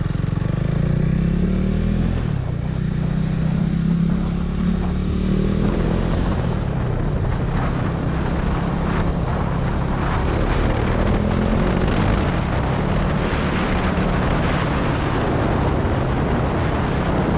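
KTM RC 390's single-cylinder engine running hard through a slip-on aftermarket exhaust while the bike is ridden, with a brief dip about two seconds in. Wind noise grows after about six seconds.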